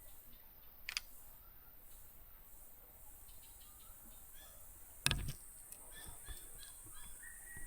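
Quiet creek-side outdoor ambience: scattered short bird calls over a steady high-pitched background buzz. A sharp click comes about a second in and a louder thump about five seconds in.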